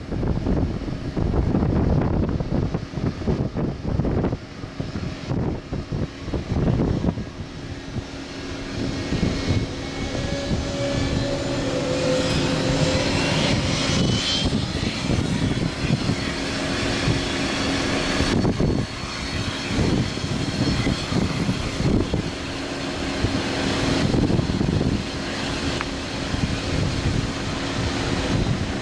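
Boeing 717's twin Rolls-Royce BR715 jet engines powering up for departure, growing louder from about eight seconds in with a steady hum and a high whine rising in pitch. Wind buffets the microphone throughout.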